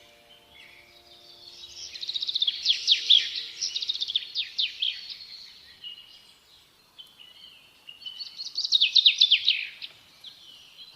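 Songbird singing in two bursts of rapid, descending chirping notes, the first about two seconds in and the second about eight seconds in.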